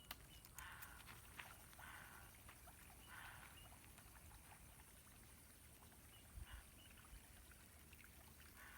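Near silence: faint outdoor ambience with a few soft, short swishes scattered through it.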